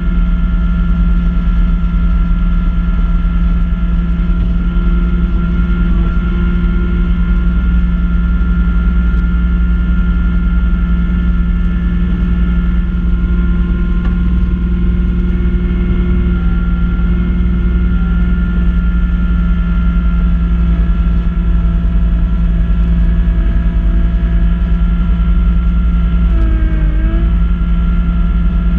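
Kubota B2650 compact tractor's three-cylinder diesel engine running steadily at working speed while driving a front-mount snow blower, with a brief dip in pitch near the end.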